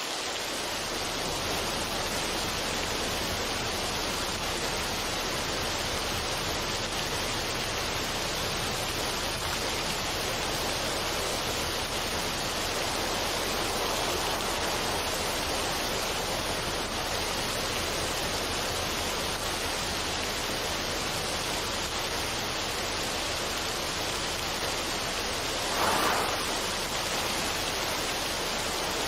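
Steady, even rushing noise of a relaxation ambience track, like falling water, with a brief swell near the end.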